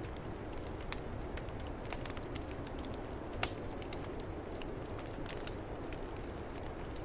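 Wood fire crackling, with scattered sharp pops, the loudest about three and a half seconds in, over a steady low rush of snowstorm wind.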